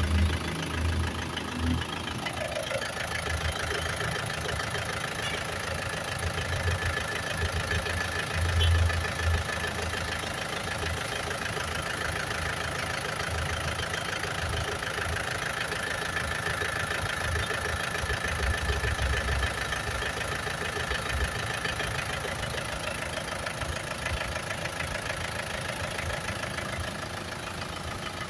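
2013 Isuzu Sportivo engine idling steadily with a low pulsing rumble and a steady high whine over it; about two seconds in, a tone falls in pitch as the engine settles.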